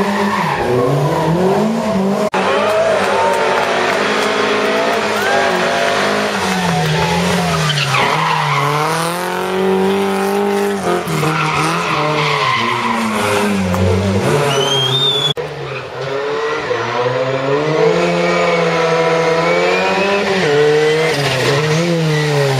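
Historic rally cars driven hard, their engines revving up and dropping back again and again with gear changes and lifts. The sound breaks off suddenly about 2 seconds and 15 seconds in and picks up with another car.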